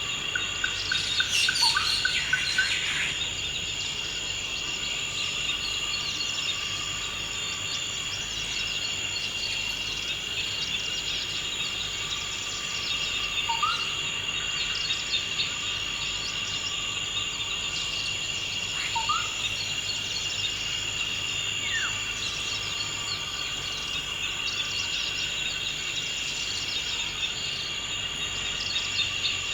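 Forest ambience: a steady high-pitched insect chorus, like crickets, throughout. Over it, a bird gives a quick run of chirps in the first few seconds, then short rising whistled calls a few times.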